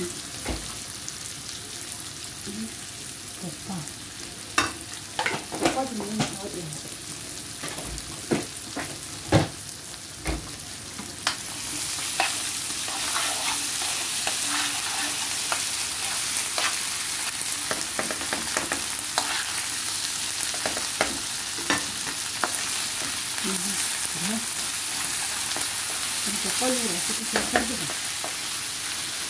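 Mixed vegetables sizzling in oil in a wok while a spoon stirs them, with sharp clicks and knocks of the utensil against the pan. The sizzle grows louder about a third of the way in.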